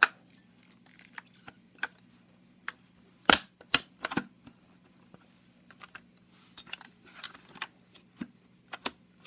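Sharp plastic clicks and knocks from handling the Dyson Cyclone V10 cordless vacuum's bin while working its release to empty it. The clicks are irregular: a cluster of the loudest comes a little over three seconds in, with softer taps and a faint rustle later on. A low steady hum runs underneath.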